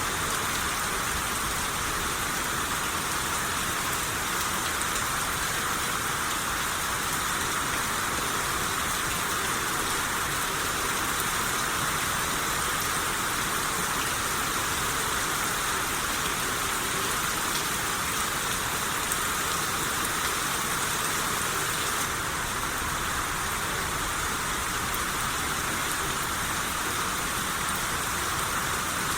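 Steady rain shower, drops hissing evenly on surfaces.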